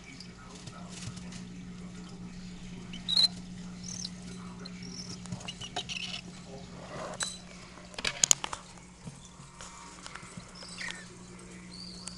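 Baby cockatiel chicks in a brooder give short, scattered high chirps and scrabble about, with a few sharp clicks and scratches, a cluster of them about eight seconds in. A steady low hum runs underneath.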